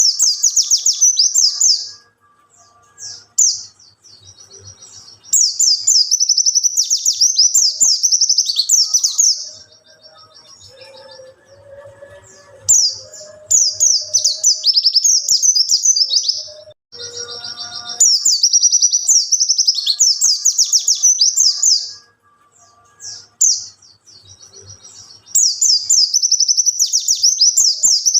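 White-eye (pleci) singing its wild-type ('ngalas') song: fast, high twittering in bouts of about four seconds, repeated with short pauses between them. This is the kind of song played as a lure to draw in wild white-eyes.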